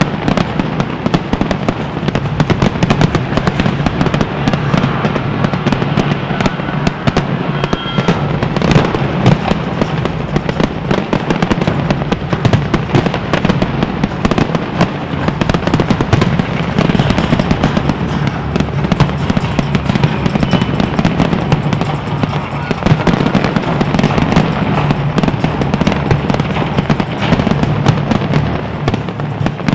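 Fireworks display: a continuous, dense barrage of bursting shells and crackling, many sharp bangs a second with no pause.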